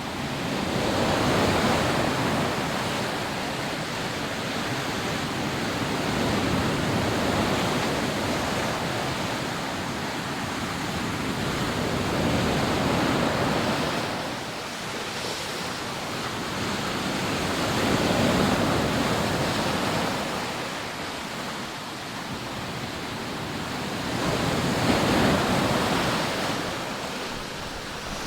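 Rough sea surf breaking and washing up a sandy beach, the noise swelling and easing in about five surges.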